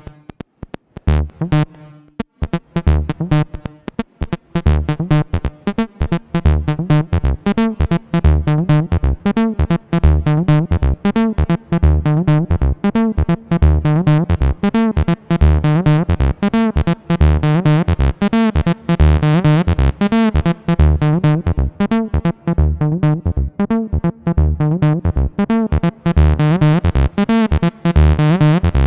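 Behringer TD-3-MO analog bass synthesizer playing a sequenced acid bassline: a fast repeating pattern of short pitched notes. It starts sparse and fills in about two seconds in, and the tone grows brighter and buzzier in the second half as the filter opens.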